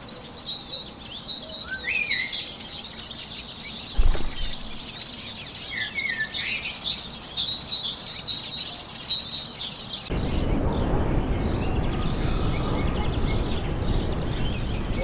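Birds chirping: a run of short, quick high notes with a few lower calls mixed in. There is a single thump about four seconds in. About ten seconds in, the birdsong cuts off and gives way to a steady rushing noise.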